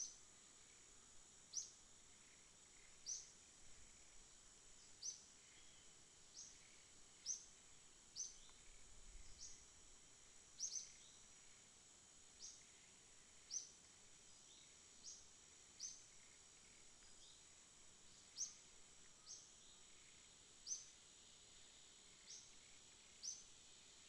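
Faint night ambience: a steady, high-pitched insect drone, with short, high chirps that rise in pitch repeating about once a second.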